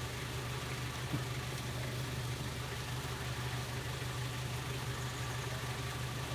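A vehicle engine running steadily with a low, even hum, and a faint tick about a second in.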